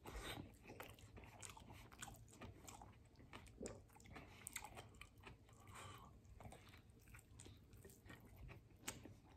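Faint chewing of a mouthful of burrito (rice, beans and vegetables), with soft wet mouth noises and small clicks throughout.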